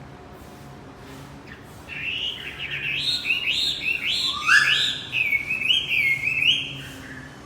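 Male wambi bird singing: a rapid run of whistled notes that rise and fall, starting about two seconds in and lasting about five seconds.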